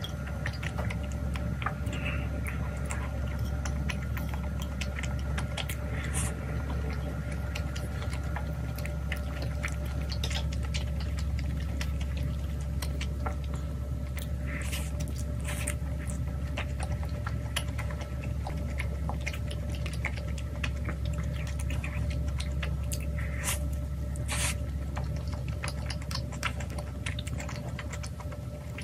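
Close-up eating sounds: chewing of spicy tteokbokki and then of potato pizza, with many small mouth clicks and smacks, over a steady low hum.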